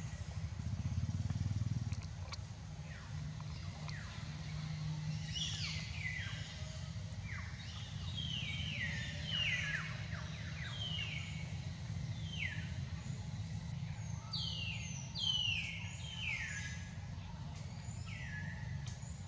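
Birds giving short, high chirps that each drop in pitch, repeated many times and thickest in the second half, over a steady low rumble.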